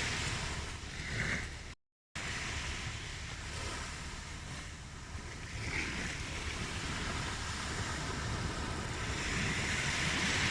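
Ocean surf washing on a shore, a steady rush that swells and ebbs, with a brief complete cutout of the sound about two seconds in.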